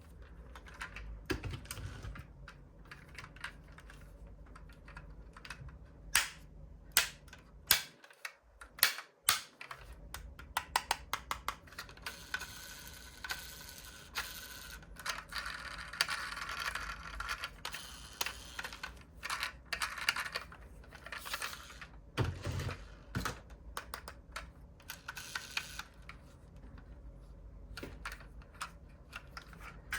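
Diecast model cars being handled: many small irregular clicks and taps of metal and plastic parts, with a stretch of rougher scraping noise about halfway through.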